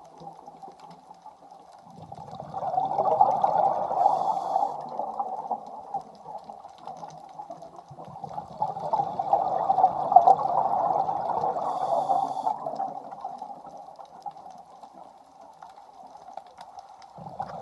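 A scuba diver breathing through a regulator underwater. Exhaled bubbles come in two long swells, each with a brief hiss of an inhaled breath.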